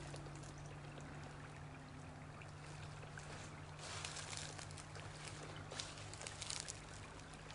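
Faint creek water trickling and pouring over a log V-weir into a pool, with a low steady hum underneath. A few brief swishes come about four and six seconds in.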